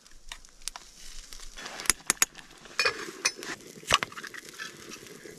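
Camp cooking sounds at the stew pot: a few sharp clicks and knocks over a faint crackle, with a low rushing setting in about three seconds in.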